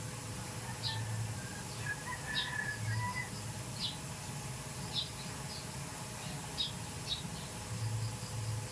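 Small bird chirping: short high chirps at uneven intervals, about a dozen in all, with a few thin whistled notes a couple of seconds in. A low hum comes and goes beneath them.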